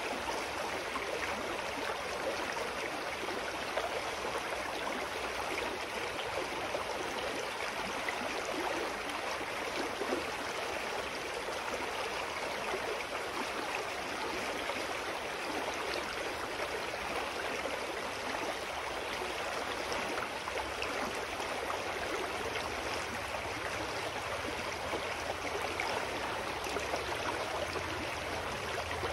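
Clear mountain stream flowing steadily over rocks, a continuous rushing and gurgling of water.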